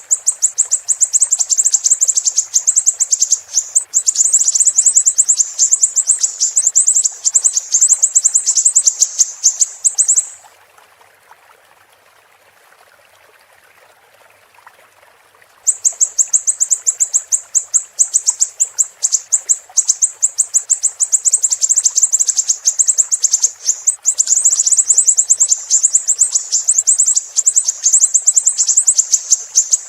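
Siri-siri bird singing a rapid, high-pitched chattering trill of many notes a second. It breaks off about ten seconds in and resumes about five seconds later. Under it runs a steady background of flowing water.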